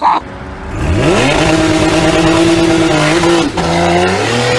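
A car engine accelerating hard. Its pitch climbs about a second in and holds high, then drops briefly and climbs again near the end.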